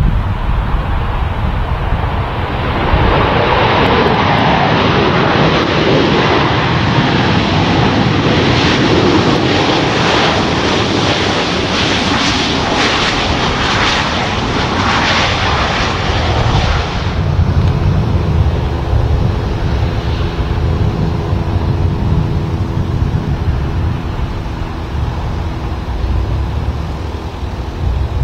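Boeing 737 jet engines roaring as the airliner comes in to land. The roar builds over the first few seconds and stays loud, then drops off suddenly about two-thirds of the way through to a lower rumble with a steady, slightly tonal hum.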